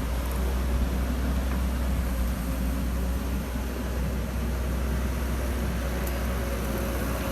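Excavator's diesel engine running steadily, a deep low rumble with a faint whine above it.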